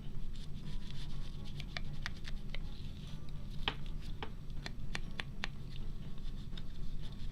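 Light, irregular taps and clicks of hands handling paper and craft supplies on a tabletop, over a low steady hum.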